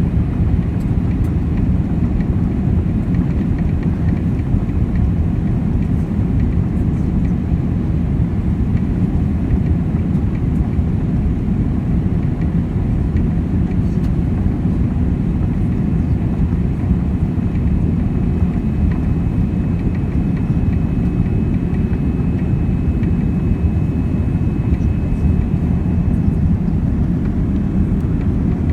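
Boeing 787 airliner heard from inside the cabin in flight: a steady, loud rumble of engine and airflow noise, with a faint high tone joining in about two-thirds of the way through.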